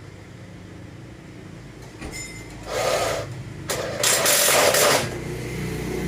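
A steady mechanical hum with two loud hissing bursts, a short one a little under three seconds in and a longer one about a second later; the hum grows louder and lower after the second burst.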